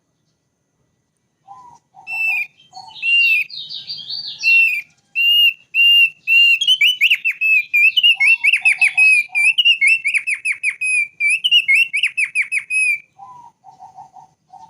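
Thick-billed white-eye (opior paruh tebal) singing a long run of rapid whistled notes and trills, beginning about a second and a half in. A few short, lower notes come at the start of the song and again near the end.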